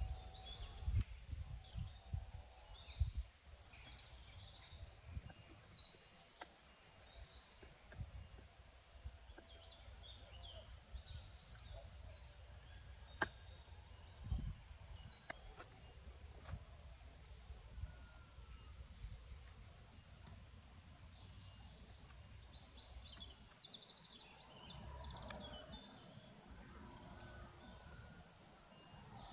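Small birds chirping here and there over a low outdoor rumble of wind, with scattered clicks and knocks.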